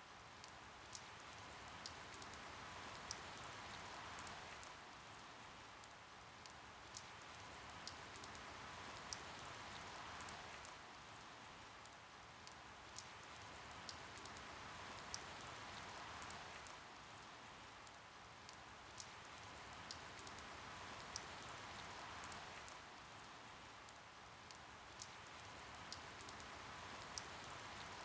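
Steady rain with individual drops ticking sharply, the rush swelling and easing gently about every six seconds.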